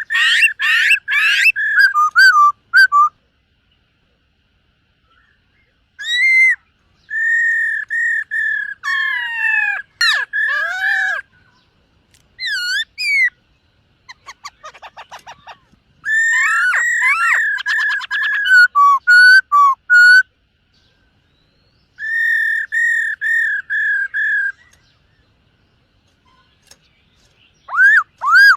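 Black-throated laughingthrush (khướu bạc má) singing: phrases of loud, clear whistled notes, some rising and falling, with pauses of a few seconds between them and a softer quick trill in the middle.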